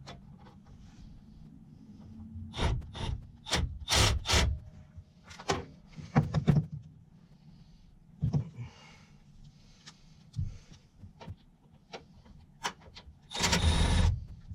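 Irregular knocks and clunks from objects being handled and set down, with a longer scraping rub near the end, over a faint low hum.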